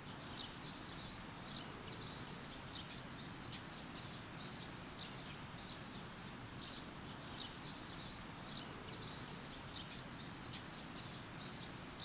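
Summer outdoor ambience of insects: a steady thin high-pitched drone with short falling chirps repeating about twice a second, over a soft even background rush.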